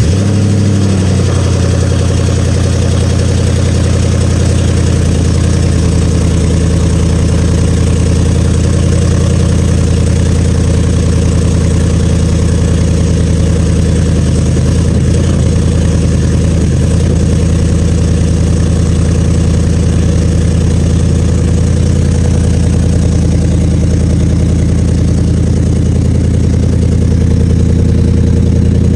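Ford Coyote 5.0 V8 in a Factory Five Mk4 Cobra catching on a cold start, with a brief flare that settles about a second in, then running at a steady cold fast idle.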